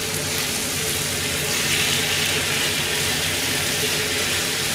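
Pork and vegetables sizzling in a hot skillet, seasoned with oyster sauce and soy sauce, while being stirred with chopsticks. The steady sizzle swells a little about a second and a half in.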